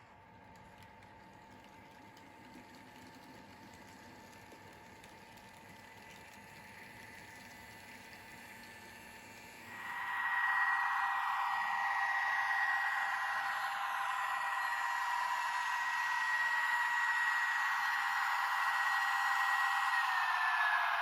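Small model-locomotive electric motor and gears whining steadily, faint at first, then starting up suddenly about halfway through and dipping slightly in pitch near the end.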